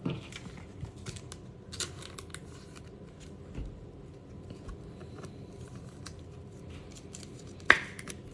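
Hands handling trading cards and their packaging: scattered light clicks and rustles, with one sharp snap near the end.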